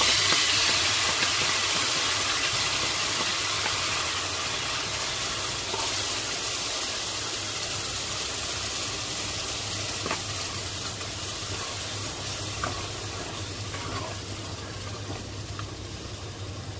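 Blended chilli-and-spice paste sautéing in hot oil in an enamelled cast-iron pot, a steady sizzle that is loudest at first and fades gradually as the paste settles. A wooden spoon stirs it with a few light scrapes, over a low steady hum.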